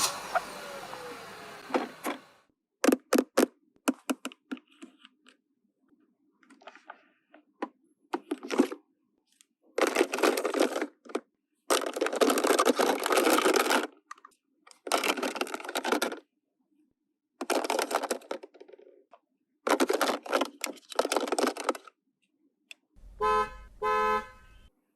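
Plastic toys being handled, with sharp clicks and rattles and several short stretches of rustling, crinkling noise. A toy siren trails off at the start, and a short electronic toy sound plays near the end.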